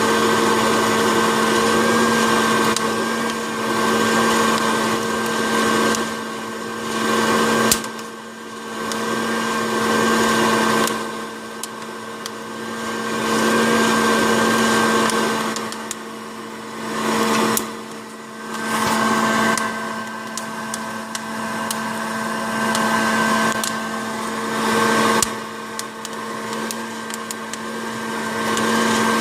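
Hot-air popcorn popper running as a coffee roaster: a steady fan-motor hum whose loudness rises and falls every few seconds, with a few sharp clicks.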